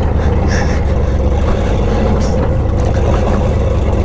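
Pickup truck engine running steadily under load in four-wheel-drive low while climbing a hill, a continuous low rumble with a few faint rattles.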